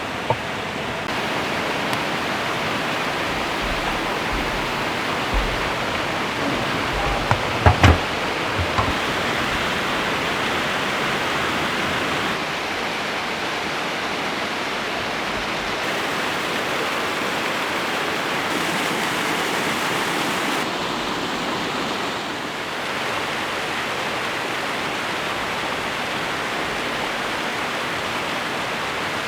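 Rushing water of a stream or waterfall, a steady hiss, with a few short knocks about eight seconds in.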